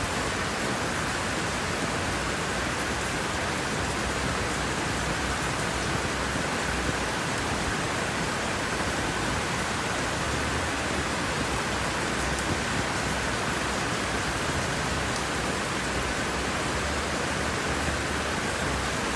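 Steady rain falling on leaves and trees, an even hiss of many drops.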